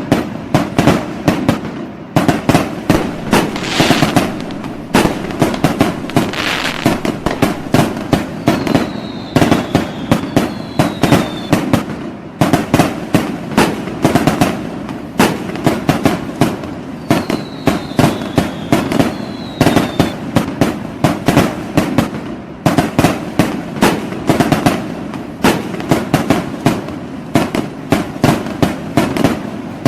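Fireworks and firecrackers going off in a dense, unbroken barrage of loud bangs, several a second. Short high whistles that fall in pitch cut through now and then.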